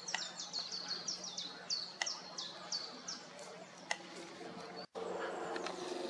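A small bird calling over and over with short, high chirps that each drop in pitch, a few every second, thinning out after about three seconds. Near the end the sound cuts abruptly to a louder, steady low hum.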